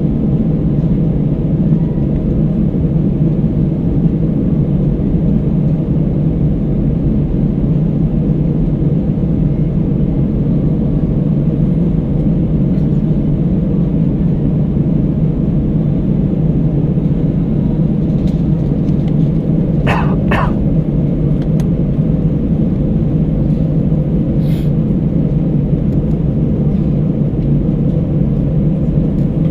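Steady low rumble of an Airbus A319 cabin in flight, engine and airflow noise heard from a forward window seat. Two short clicks come close together about two-thirds of the way through.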